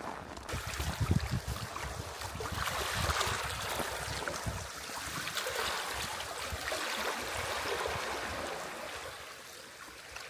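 Strong Arctic wind rushing and gusting, swelling and easing, with low buffeting thumps on the microphone in the first couple of seconds.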